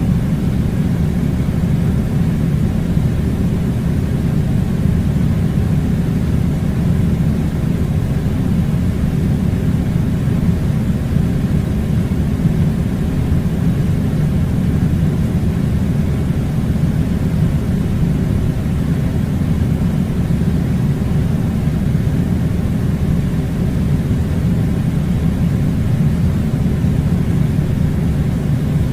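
Air conditioner blowing: a steady, loud, low rumbling rush of air that does not change.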